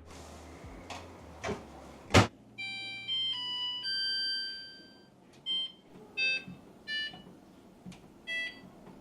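A couple of clicks, then a household appliance's electronic start-up jingle: a short tune of stepped beep tones, followed by several short button beeps, one about every three-quarters of a second.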